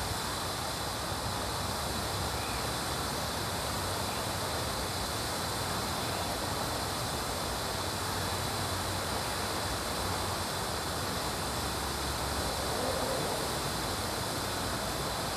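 Johnson 140 hp V4 two-stroke outboard motor running steadily, warming up after a cold start, with freshly rebuilt carburetors and new power packs.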